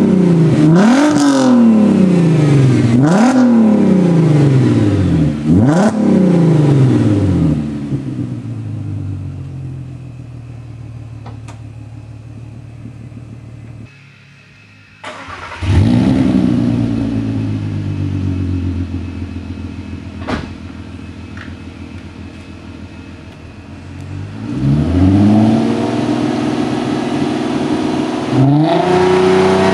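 Volkswagen MKV R32's 3.2-litre VR6 engine through its prototype exhaust, revved sharply three times in quick succession, each rev falling straight back, then settling to a steady idle. After a short break it is blipped once more and idles again; near the end the revs rise and are held, followed by another quick blip.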